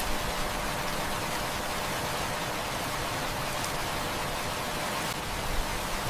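Heavy rain falling steadily: a dense, even hiss with a few faint pops.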